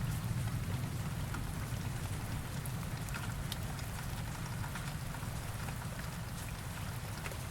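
Steady rain falling, with scattered sharp drop ticks over an even hiss and a low rumble underneath, slowly getting quieter.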